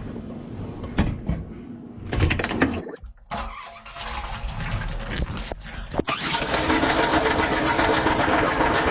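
Dishwasher running, heard from inside the tub: motor and pump rumble with a few knocks, then water spraying loud and steady against the dishes from about six seconds in.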